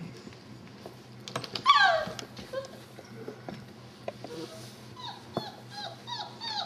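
Young labradoodle puppies whimpering and yelping as they play: one loud yelp falling in pitch about two seconds in, then a string of short, high, falling squeals near the end, with scattered light clicks.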